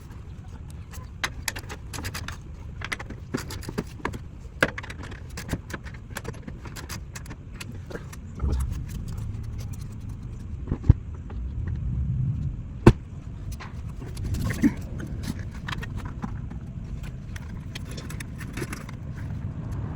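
Metal hardware and hand tools clicking and clinking, with scattered sharp knocks, two of them loud about eleven and thirteen seconds in, over a steady low rumble.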